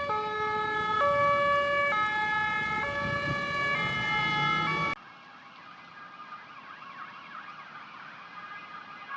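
Ambulance two-tone siren alternating between two pitches about once a second, cut off abruptly about five seconds in. Then a quieter, more distant siren whose pitch sweeps quickly up and down.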